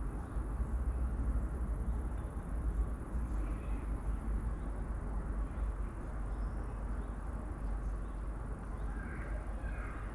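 Bird calls over a steady low rumble: a short call about three seconds in and a louder, sloping call near the end.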